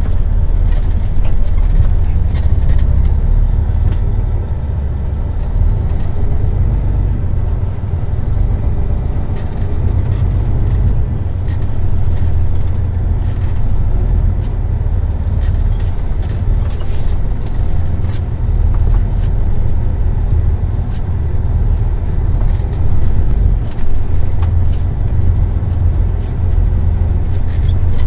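Semi truck under way: the diesel engine drones steadily under a low road rumble.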